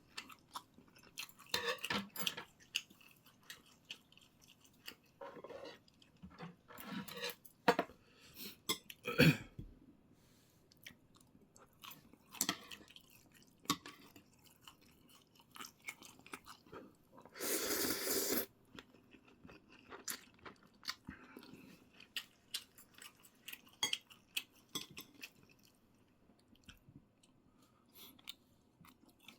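Close-up eating sounds: a person chewing, with scattered short smacks and clicks, a sharper one about a third of the way in, and one longer noisy burst of about a second a little past the middle.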